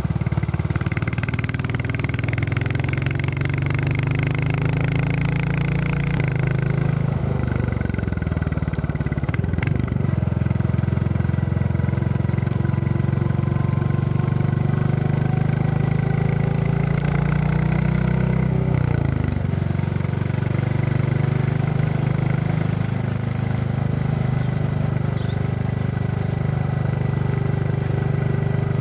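Royal Enfield Classic 350's single-cylinder engine thumping steadily under way, with the engine note changing about seven seconds in and again near the middle, over wind and road rush.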